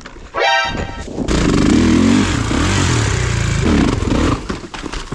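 Kawasaki KX450 four-stroke single-cylinder motocross engine revving hard, with a quick rising whine about half a second in, then loud, rough running with the pitch shifting up and down.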